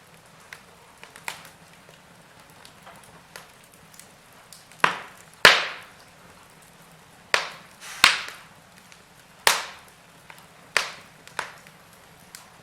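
Wood logs burning in a fireplace, crackling with scattered small clicks over a faint hiss, then a run of about six loud, sharp pops from about five seconds in.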